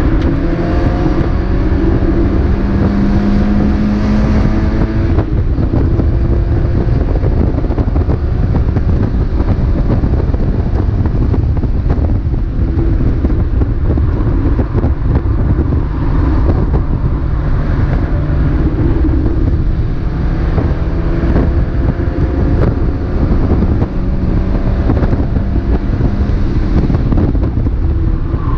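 Mazda MX-5 race car's four-cylinder engine running hard at racing speed, heard onboard along with wind and road noise. The engine note repeatedly climbs steadily and then drops back.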